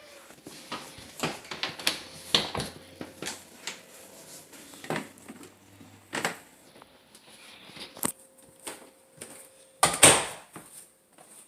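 Scattered clicks, knocks and rustles of objects being handled, with the loudest rustling knock about ten seconds in.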